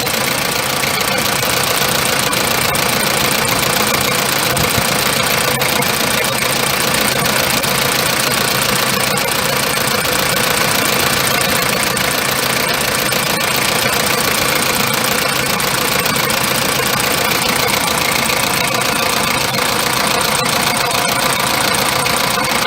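Toyota 1KZ-TE 3.0-litre four-cylinder turbodiesel idling steadily at an even speed.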